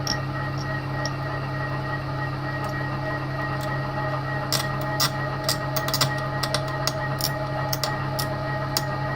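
TOS milling machine running at a slow spindle speed, humming steadily, as a 6.25 mm drill bit works into a snapped stainless exhaust stud that is probably work-hardened. From about four and a half seconds in, irregular sharp clicks and ticks come in over the hum, several a second.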